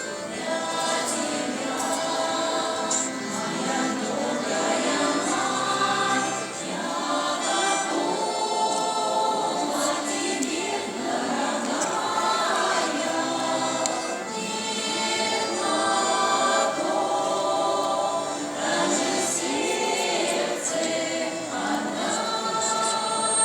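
Russian folk choir singing together, the voices blended and steady in loudness.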